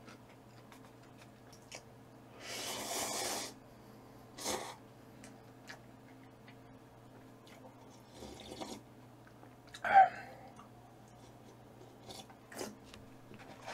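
A person eating: quiet chewing broken by a hissing noise lasting about a second, a few clicks, and one short louder sound about ten seconds in, over a low steady hum.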